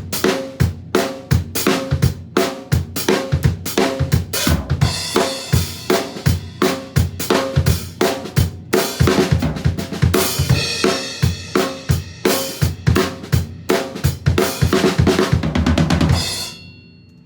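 Drum kit playing a groove with a quarter-note bass drum and swung eighth-note strokes around it, over the song's recording. It stops about a second before the end, leaving a short ring that fades away.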